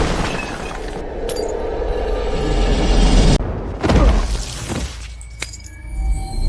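Sound-effect glass shattering and breaking, several sudden crashes over dramatic background music.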